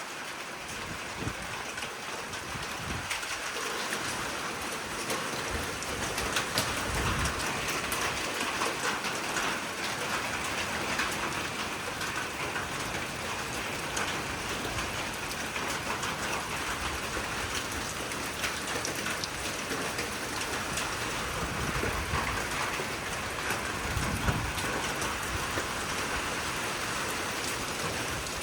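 Steady rain falling during a squall line, with a few brief low rumbles about a quarter of the way in and again near the end.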